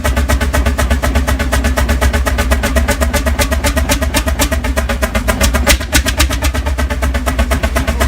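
Fairbanks-Morse two-cylinder, two-stroke semi-diesel engine running steadily, its exhaust beating in an even, rapid rhythm of about eight or nine pulses a second.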